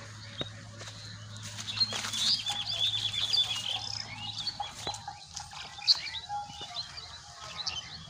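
Small birds chirping and twittering, with a quick run of rapid chirps about two seconds in. A low steady hum stops about five seconds in, and a few sharp clicks come through, the sharpest about six seconds in.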